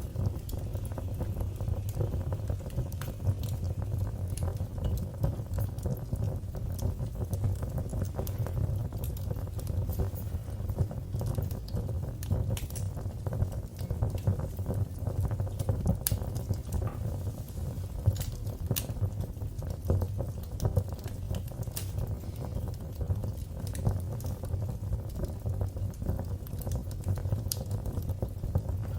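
Wood fire burning in a fireplace: a steady low rumble of flames with frequent sharp crackles and pops, a few louder snaps standing out.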